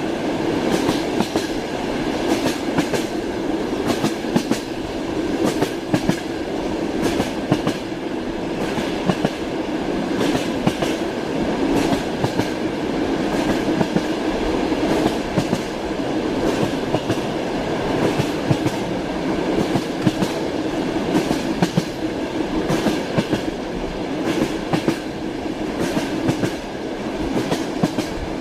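Train wheels running on rails: a steady rumble with frequent sharp clicks as the wheels pass over the rail joints.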